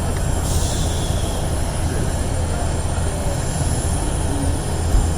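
Steady low rumble of aircraft engine noise, with a brief hiss about half a second in.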